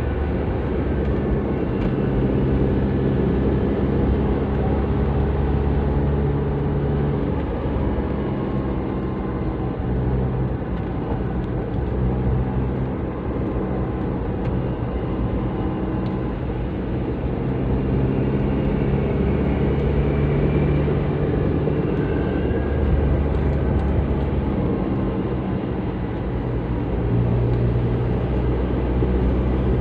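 Toyota Avanza with a custom aftermarket exhaust driving along, its engine and exhaust note running steadily with the pitch shifting several times as the revs change.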